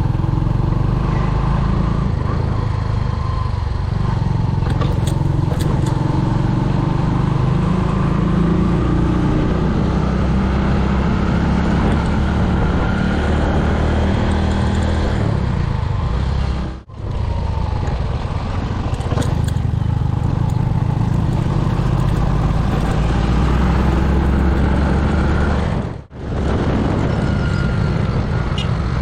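Motorcycle on the move, with wind rushing over the microphone on top of the engine's steady running. The sound drops out briefly twice, past the middle and near the end.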